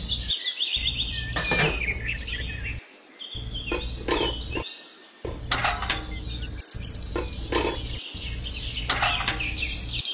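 Birds chirping in quick, short calls over a low steady hum that drops out abruptly a few times.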